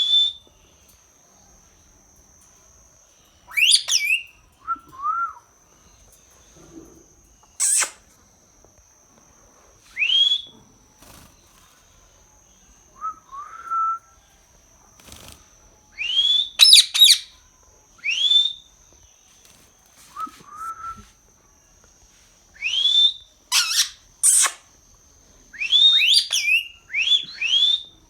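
A parrot whistling: short calls that sweep quickly upward, mixed with lower, softer short calls, coming every two or three seconds and crowding together near the end. A faint steady high tone runs underneath.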